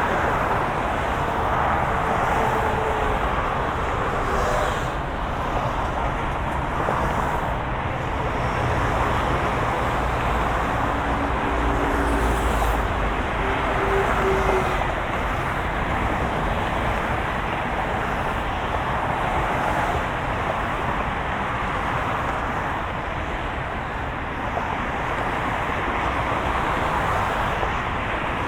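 Steady road and engine noise of a moving car: a continuous low hum and rushing hiss, with faint pitched tones coming and going.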